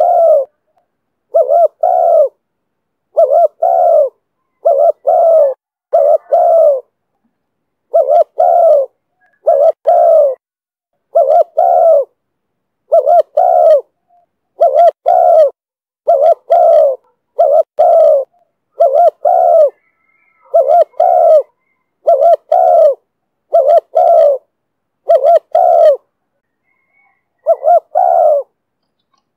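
Spotted dove cooing over and over in the 'thổ thúc bổi' style prized by Vietnamese keepers: short low coos in close pairs, repeated about every second and a half, with a longer pause a little before the end.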